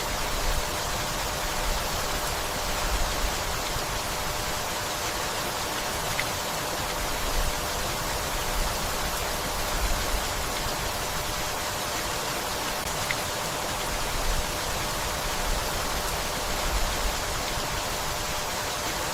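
Steady, gentle rainfall: an even, unbroken hiss of rain, with soft low swells every second or two.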